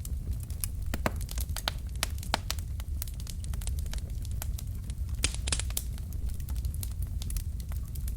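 Wood fire in a fireplace crackling, with many sharp irregular pops over a steady low rumble, and a short hiss about five seconds in.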